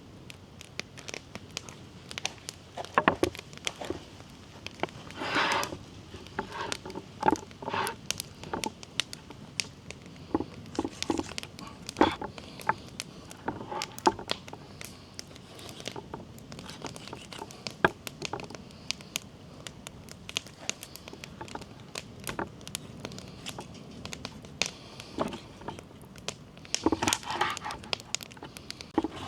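Irregular crackling and rustling with many scattered sharp clicks and knocks; the loudest come a little after 3 s, around 5 to 6 s, around 12 s and near the end.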